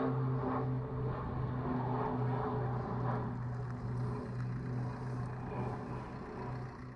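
Twin Pratt & Whitney Canada PT6A-67AF turboprops of a Conair S-2FT Turbo Firecat droning, a steady low propeller hum with a slow pulsing beat, fading slightly near the end.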